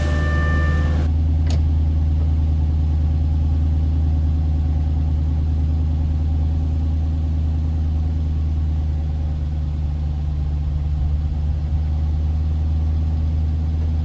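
Jaguar XJR engine idling steadily just after a cold start. A high, steady electronic tone stops about a second in, followed by a single click.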